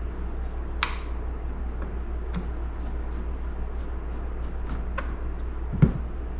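Scattered light clicks and taps of small metal parts and tools being handled while working on a chainsaw's center hub and washer, with one heavier knock near the end, over a steady low hum.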